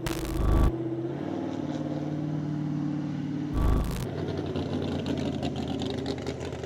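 Car engine running steadily, interrupted by two loud bursts of noise, one at the start and one about three and a half seconds in, with a fast crackle in the engine sound after that.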